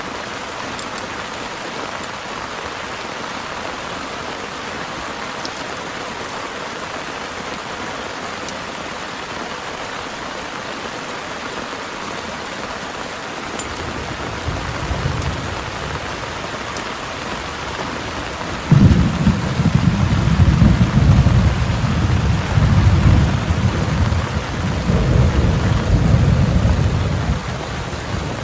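Heavy rain falling steadily. About halfway through, a low rumble of thunder builds, then a loud thunderclap breaks about two-thirds of the way in and rolls on in waves for several seconds before easing near the end.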